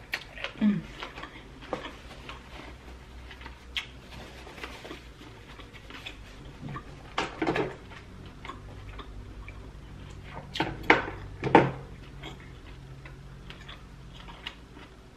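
Close-up eating sounds: chewing with wet mouth clicks and lip smacks, irregular and mostly soft, with a few louder smacks past the middle.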